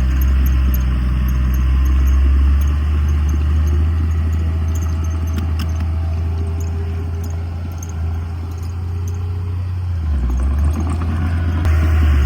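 Diesel engine of a heavy earthmoving machine running steadily with a deep, low hum, with light clatter over it. The engine dips a little in loudness past the middle and comes back up near the end.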